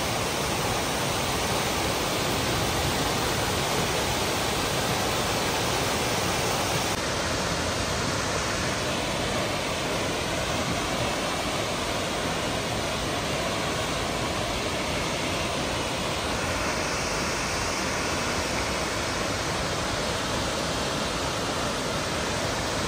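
Steady rush of Tortum Waterfall's falling water, an even, unbroken roar.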